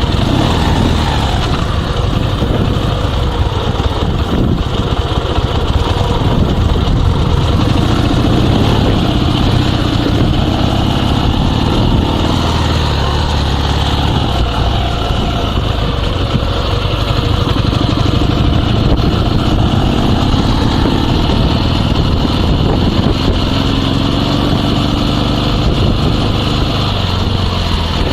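Dnepr 16 sidecar motorcycle's flat-twin engine running steadily, its pitch rising and falling slowly with the throttle.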